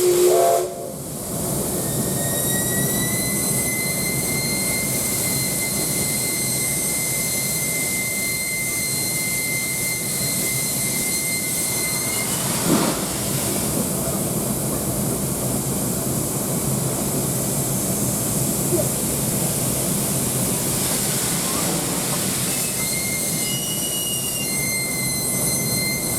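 Steam locomotive standing with a steady hiss of steam and a high, steady metallic whine that stops about twelve seconds in and comes back near the end. A brief louder pitched sound comes right at the start.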